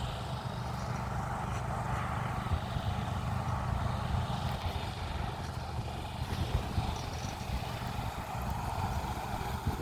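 Sugar cane train running: a steady low rumble with a steady hum above it and a few faint clicks.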